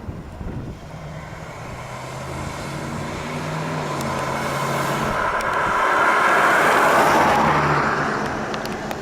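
1970 Oldsmobile Cutlass with a Rocket 350 V8 driving past: engine hum and tyre noise grow louder, peak about two-thirds of the way through, then fade.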